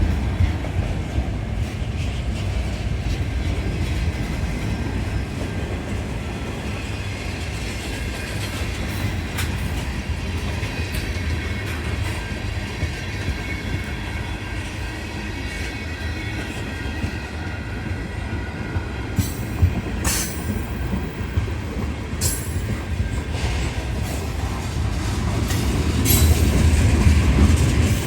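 A train rolling by on the rails: a steady low rumble of wheels on track with clicking over rail joints and thin, high wheel squeals in the second half, growing louder near the end.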